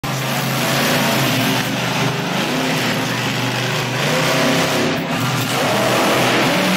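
A truck's engine running loudly under heavy throttle, its pitch rising and falling as it revs.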